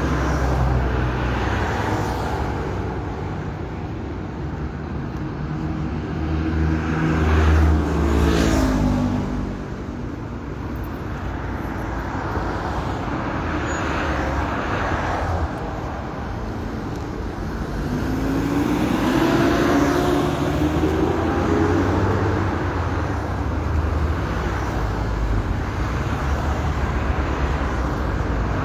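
Road traffic going by. The engine note of a passing vehicle falls about eight seconds in, and another rises around twenty seconds in.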